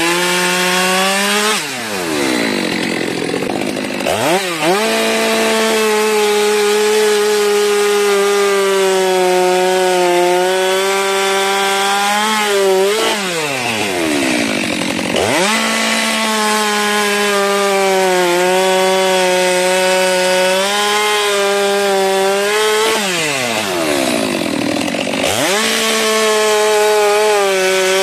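STIHL MS 462 chainsaw running at high revs, cutting through wood. Three times, about two seconds in, near the middle and near the end, the engine drops off sharply and then revs back up before cutting again.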